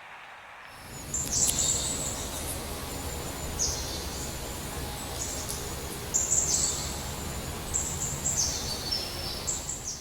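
Bird calls: repeated high-pitched calls, each dropping in pitch, about every second or so over a steady outdoor background noise.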